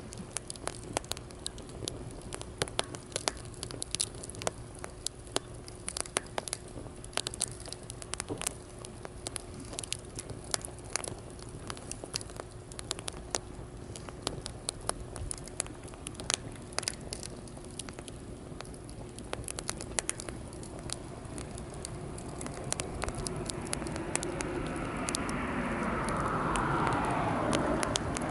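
Wood campfire crackling and popping with many sharp snaps. Over the last several seconds a broader rushing sound swells up beneath it and grows louder.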